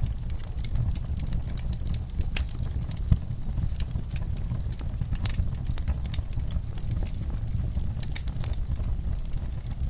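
Wood fire burning in a fireplace: irregular crackles and snaps over a low rumble of flames, with one sharper pop about three seconds in.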